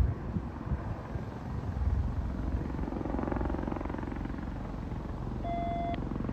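Sheriff's helicopter flying overhead, its rotor chop a steady low pulsing rumble. A short electronic beep sounds about five and a half seconds in.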